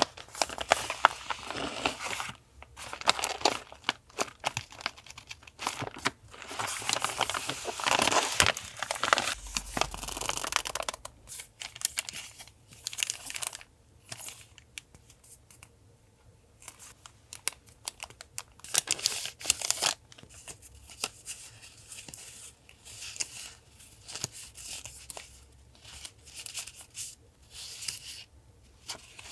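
Paper being handled close up: crinkling, rustling and tearing in irregular bursts with sharp little clicks and short pauses between.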